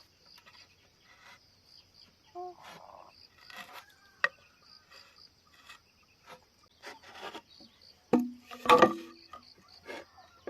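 Insects trill steadily in a fast, pulsing high chirp, over scattered clicks and knocks of bamboo being handled. About eight seconds in come two louder hollow knocks with a brief ring.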